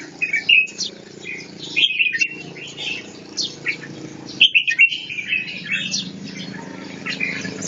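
Red-whiskered bulbul singing: quick chirping, whistled phrases repeated every second or so, over a steady low background hum.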